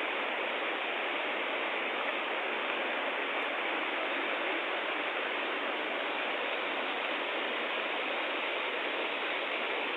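Floodwater of the Sebou River rushing steadily, an even, unbroken wash of water noise.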